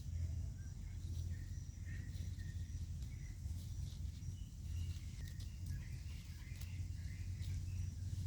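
Outdoor natural ambience: scattered short, high chirping calls and a thin steady insect-like tone over a steady low hum.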